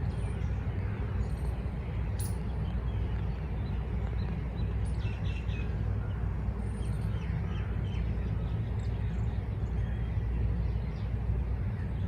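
Scattered faint bird chirps over a steady low rumble, with a sharp click about two seconds in.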